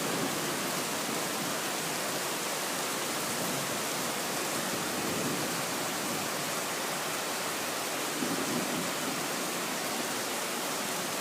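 Heavy rain pouring down steadily in a thunderstorm, an even, unbroken hiss.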